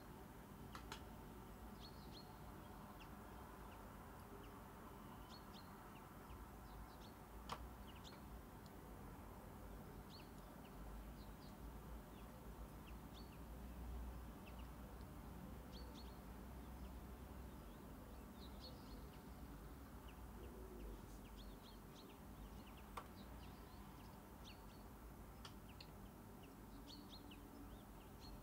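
Near silence: room tone with a low hum, faint scattered bird chirps, and three faint clicks.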